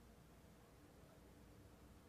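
Near silence: faint hiss and low hum between lines of narration.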